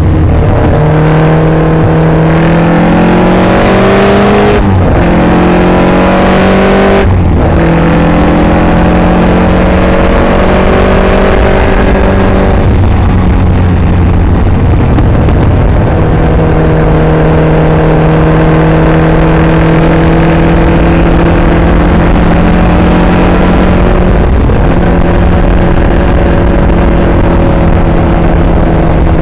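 Caterham Superlight's four-cylinder engine from the open cockpit under hard acceleration on track. The revs climb, with two quick upshifts a couple of seconds apart near the start, then hold high and steady, easing off briefly midway and again near the end.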